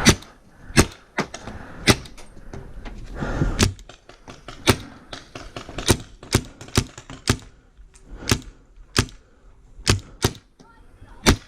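Magfed paintball marker firing single shots at an uneven pace, about one to two a second: suppressing fire to keep an opponent pinned down.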